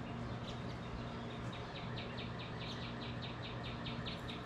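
Bird chirping in a rapid series of short high notes, about six a second, beginning about a second and a half in. A steady low hum runs underneath.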